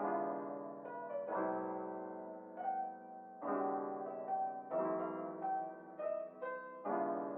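Background piano music: slow, gentle chords struck every second or so, with the notes left to ring.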